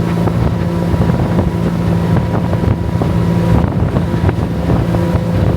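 Motorboat engine running steadily while the boat cruises, with wind buffeting the microphone.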